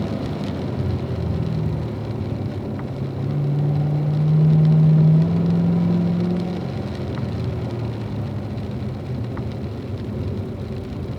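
Car engine under way on a wet track, pulling under throttle with its note climbing from about three seconds in, easing off a couple of seconds later and then running at a lower, steady note, over a steady hiss of tyre and road noise.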